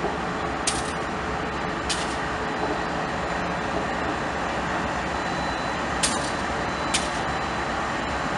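A train running past with a steady rumbling noise, cut by four short hisses, two near the start and two near the end.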